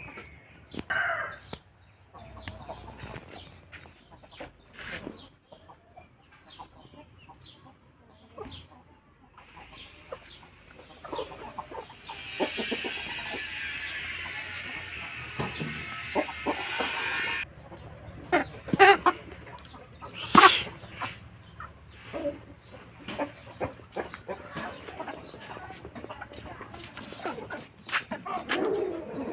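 Aseel chickens clucking and calling in short, scattered calls, a few of them loud and sharp about two-thirds of the way through. A steady hissing noise runs for about five seconds in the middle.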